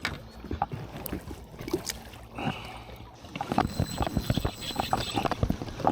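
Irregular knocks, taps and light splashing against a kayak as a small hooked smallmouth bass is landed and handled, getting busier about halfway through.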